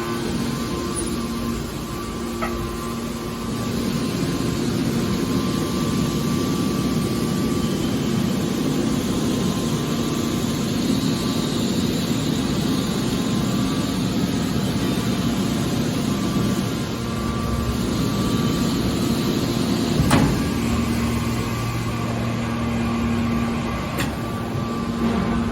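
Car baler running: a steady machine hum and noise, with a sharp knock about twenty seconds in.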